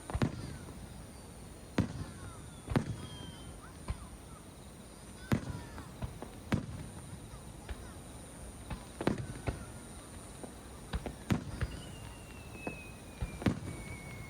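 Fireworks going off in irregular sharp bangs, about one every second or two, with a thin falling whistle near the end.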